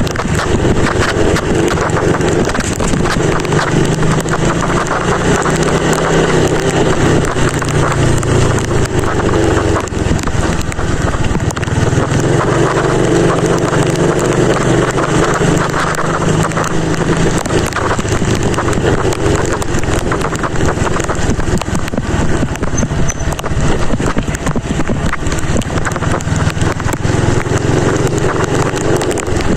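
Motorcycle riding along, its engine running under loud wind and road noise on the microphone, the engine note shifting a few times.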